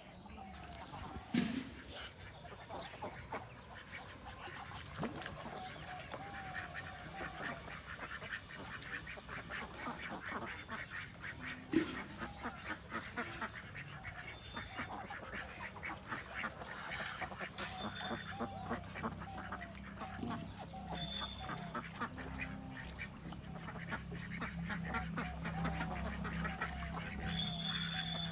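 Birds calling in many short, repeated arched notes, over a steady low hum that grows louder toward the end.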